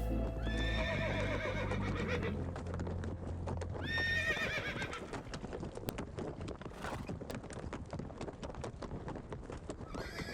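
Mustangs whinnying, one long wavering call about half a second in and another about four seconds in, followed by a fast clatter of hooves.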